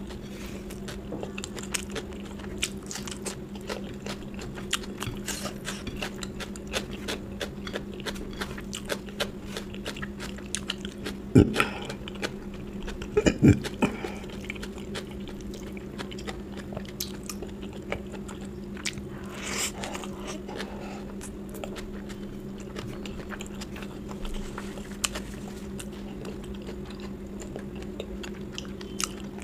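Close-miked chewing of a person eating a curry-and-rice meal: many small wet mouth clicks, with two louder mouth sounds about halfway through. A steady low hum runs underneath.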